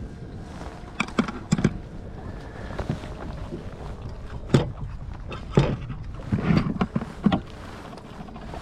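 A series of sharp knocks and clunks, some in quick pairs, on a small fishing boat over a low steady rumble.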